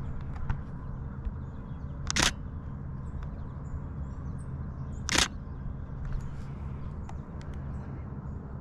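Canon Rebel T7i DSLR shutter firing twice, each a short sharp click about three seconds apart, over a low steady rumble.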